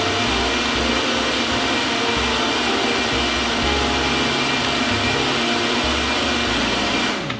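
Blender running steadily at speed, breaking frozen broccoli, kale and spinach down into a liquid green smoothie. It shuts off suddenly near the end.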